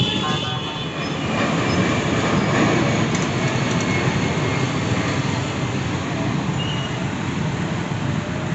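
KRL Commuter Line electric train running along the tracks, a steady rumble of wheels on rail.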